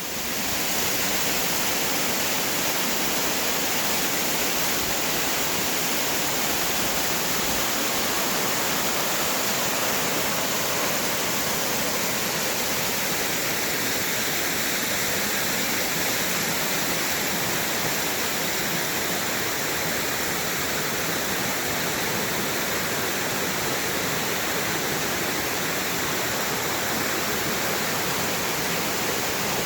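A 40 ft waterfall pouring, a loud steady rush of falling water.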